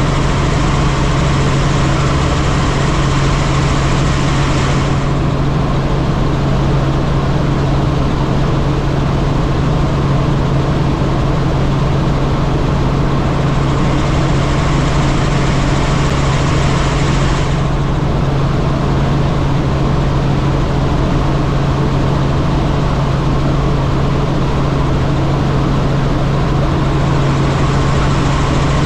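Helicopter in flight: the engine and rotor make a loud, steady drone with a constant low hum, under a hiss that swells for the first few seconds and again about halfway through.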